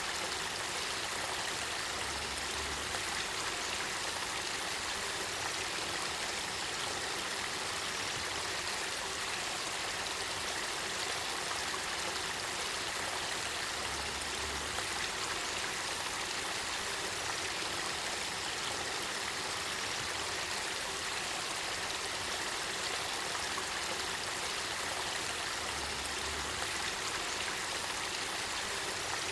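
Spring-fed river water flowing and babbling, a steady even rush.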